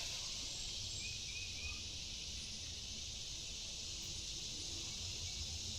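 Quiet outdoor creekside ambience: a steady, even high hiss with a faint low rumble, and a few faint chirps about a second in.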